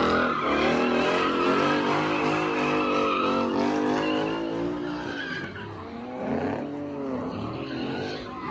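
A car's engine revving hard with tyres squealing and skidding. The engine note holds high for about five seconds, then drops back and rises and falls in shorter revs.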